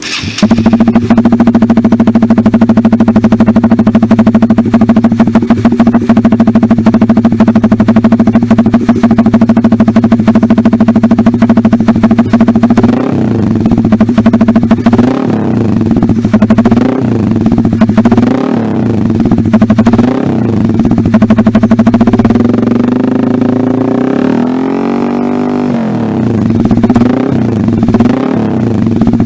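Motorcycle engine breathing through an SC Project CRT Titan-style aftermarket racing silencer. It idles steadily at first, then from about halfway through it is revved in a series of short throttle blips, with one longer rev near the end, before settling back to idle.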